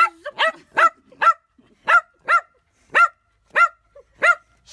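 A small dog barking: a run of about nine short, high-pitched barks, roughly two a second.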